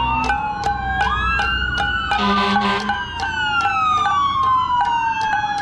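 Several emergency-vehicle sirens wailing at once, their overlapping tones rising and falling, with pots and pans being banged about four times a second. A short horn blast sounds about two seconds in.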